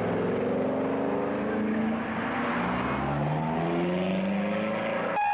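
Car engines running and revving as cars accelerate past, their pitch climbing several times over.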